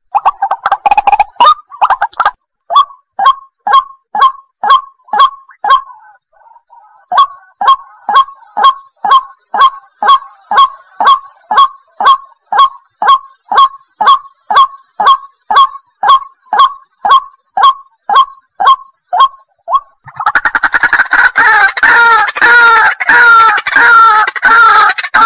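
White-breasted waterhen calling: a steady string of short, downward-sliding notes, about two to three a second. About twenty seconds in, more birds join and the calling turns into a louder, dense chorus of overlapping notes.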